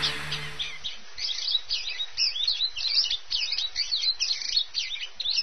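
Several birds chirping and calling together, a busy chorus of short, quick notes. Traces of background music fade out in the first second.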